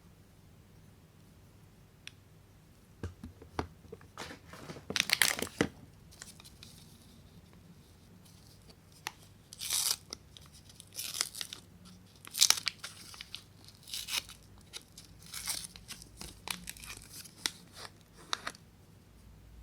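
Soap wrappers being torn and crinkled open by hand, in irregular short bursts with pauses between; the loudest come about five seconds in and again at about twelve seconds.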